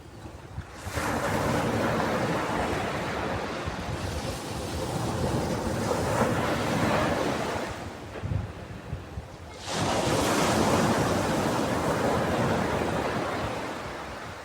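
Ocean waves breaking on a beach: a wave crashes in about a second in and washes up and back over several seconds, then a second wave breaks near ten seconds in and fades out.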